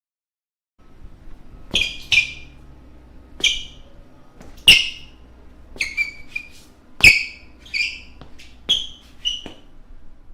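Basketball shoe soles squeaking on a floor: about a dozen short, sharp, high-pitched squeaks at uneven intervals, beginning a little under two seconds in.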